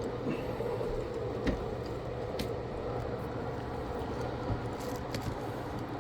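Steady low hum and fan-like hiss from workbench equipment, with a few light clicks of small tools.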